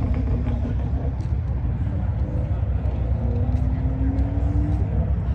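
Car engines running at a car meet: a steady low rumble, with one engine note rising slowly for a couple of seconds about three seconds in.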